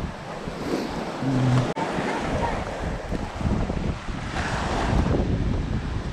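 Small waves of choppy, high-tide water washing onto the beach, with wind rumbling on the microphone.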